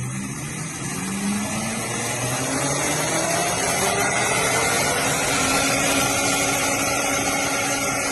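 EVERCROSS EV12M Pro kids' electric motorcycle being ridden: the electric motor's whine rises in pitch over the first few seconds as the bike speeds up, under loud rushing noise.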